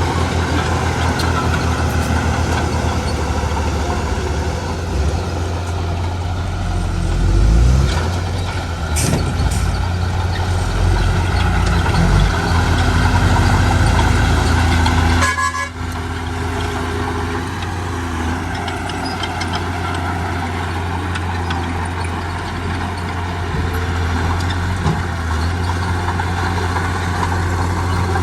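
Heavy diesel engine of earthmoving machinery running steadily with a deep, even hum, briefly dropping about halfway through.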